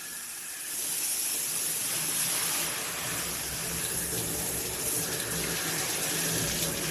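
Water spraying steadily from a Cobbe 8-function handheld shower head, an even hiss that grows louder about a second in.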